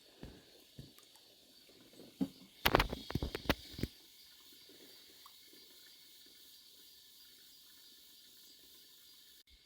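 A quick run of sharp knocks and rattles, loudest about three seconds in, over a faint steady hiss.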